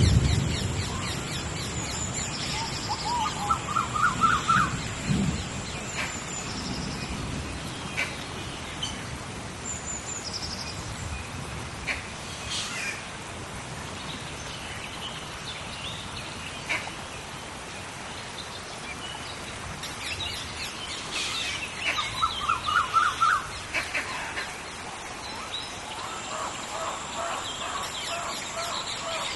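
Rainforest rain storm ambience: a steady hiss of rain under bird calls, with quick runs of rising chirps twice and again near the end, scattered higher calls, and a thin steady high whine at the start and again near the end. A thunder rumble dies away in the first second.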